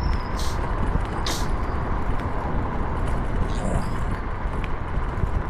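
Steady road and traffic noise with low wind rumble on the microphone while riding along a city road, and two short hisses about half a second and just over a second in.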